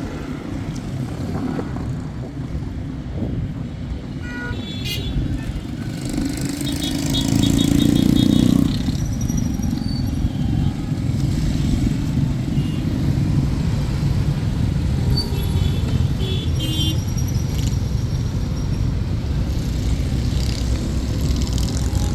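Steady low rumble of a running motor vehicle, swelling louder for a second or two about seven seconds in, with faint high chirping ticks now and then.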